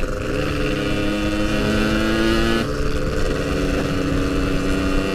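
Yamaha RX-King's two-stroke single-cylinder engine running under way, its note climbing slightly, then dropping in pitch once near the middle and holding steady again.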